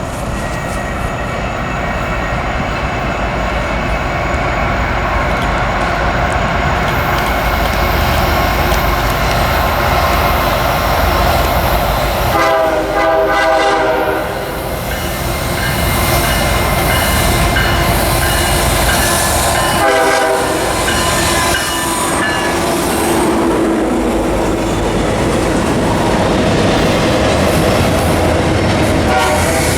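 A train rolling past with a steady rumble and wheel noise, its locomotive horn sounding a blast of about a second and a half near the middle, a short blast about seven seconds later, and another just at the end.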